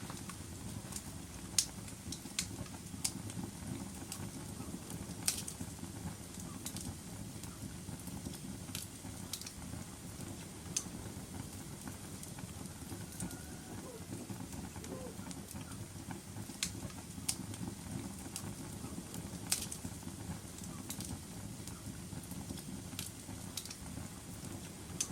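Wood fire crackling in a fireplace: a steady low rush of burning with sharp, irregular pops every second or two.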